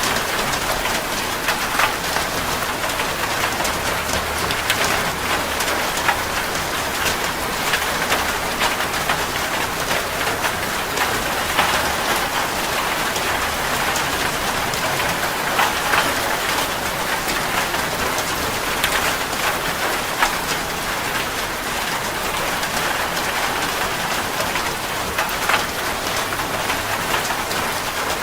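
Heavy rain falling on a metal roof: a steady, dense hiss with many sharp individual drop ticks scattered throughout.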